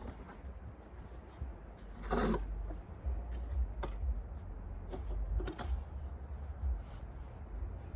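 A snow shovel scraping and pushing snow in a few separate strokes, the strongest about two seconds in, over a steady low rumble of wind on the microphone.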